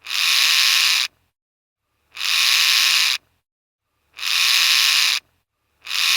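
Parrot screeching: four identical harsh, buzzy screeches of about a second each, roughly two seconds apart.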